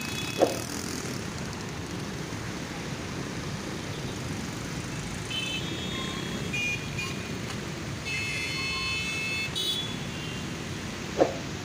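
Jammed street traffic running steadily, with horns sounding in two stretches through the middle. Two short sharp knocks, the loudest sounds, come about half a second in and near the end.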